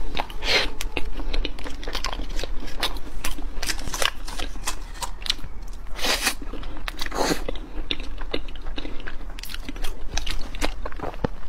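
Close-miked chewing and biting of soft filled mochi rice cakes: a run of short mouth clicks and smacks, with a couple of louder ones about halfway through.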